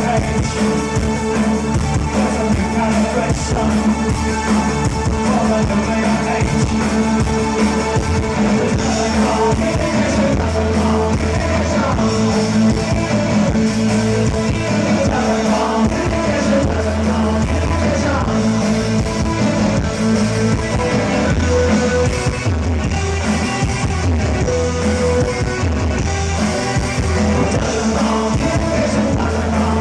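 Live new wave band playing a song with lead vocals over synthesizer, guitar, bass and drums, at a steady driving beat.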